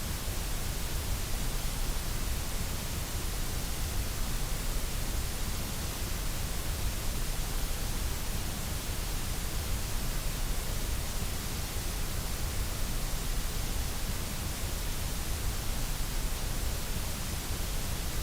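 Steady white noise: an even, unchanging hiss across the whole range of pitch.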